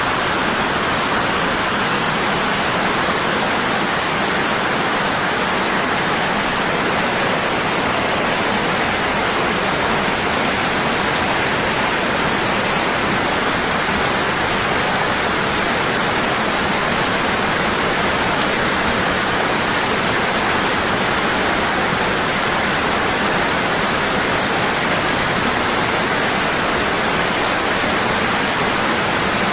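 Waterfall, water falling strong and constant: a steady, unbroken rush with no changes.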